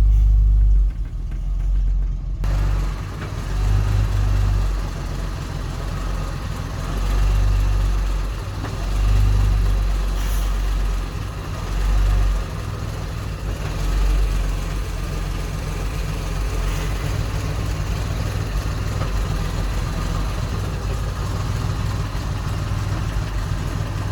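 The 1091-cubic-inch Hall-Scott straight-six of a 1958 Mack B-21 fire truck running, its deep sound swelling briefly about five times over the first fourteen seconds or so, then running steadily at idle. The engine is touchy and jumpy on the throttle.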